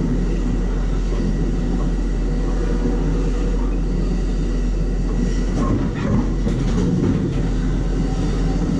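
Passenger train in motion, heard from aboard: a steady loud rumble of wheels on rails, with a few short knocks and rattles about six and seven seconds in.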